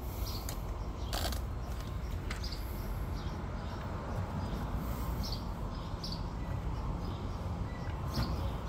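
Outdoor background: short bird chirps scattered over a steady low rumble, with a sharp click about a second in and a fainter one a little later.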